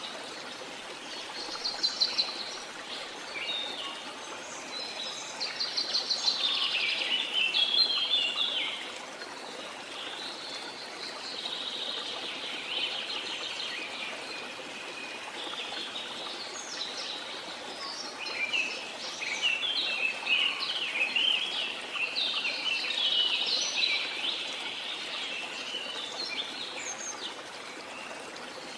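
Birds singing over a steady rush of flowing water, with repeated chirping and trilling phrases coming and going; the loudest bursts are around two seconds in, from about six to eight seconds, and again near twenty seconds.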